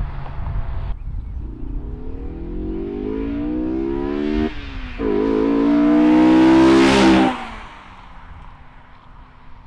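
Honda S2000 accelerating hard past. The engine note climbs steadily, drops sharply at a gear change about four and a half seconds in, then climbs again and is loudest as the car goes by around seven seconds in, before fading away.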